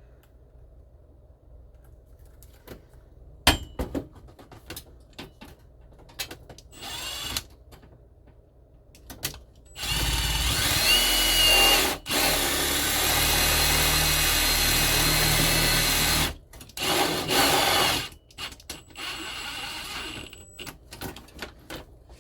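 Power drill driving a screw: a few handling clicks, a short burst, then a run of about six seconds broken by a brief stop, then one more short burst near the end.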